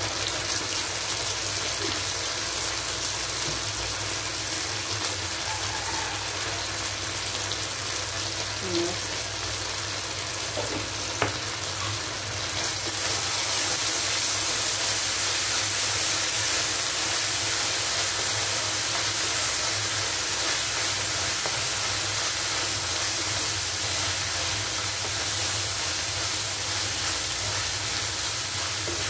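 Cubed green bell pepper and ginger-garlic paste sizzling in hot oil in a frying pan while being stirred with a metal spoon. It is a steady frying hiss that grows louder about halfway through.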